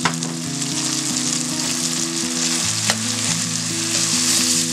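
Onion-tomato masala with freshly added spice powders sizzling in oil in a stainless steel kadai as a spatula stirs it, with two sharp taps, one near the start and one about three seconds in.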